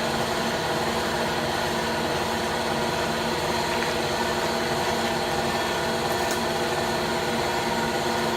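Steady hum of a running machine: several constant tones over an even hiss, unchanging in level.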